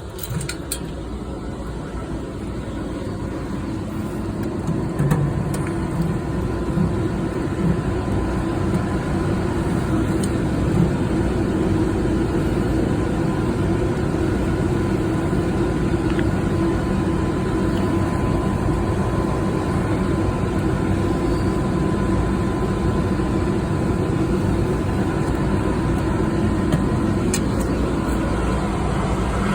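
Air handler running: steady machine noise with a constant low hum and a faint steady tone above it. A few light clicks come near the start and near the end.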